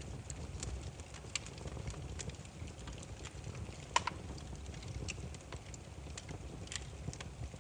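Wood fire burning, with scattered sharp crackles and pops over a low steady rumble of flames; one louder snap about four seconds in.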